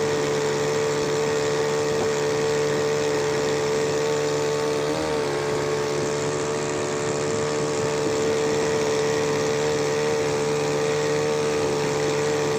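Matsumoto MOB 830 3 hp two-stroke outboard motor running steadily at constant speed, with a brief wobble in pitch about five seconds in.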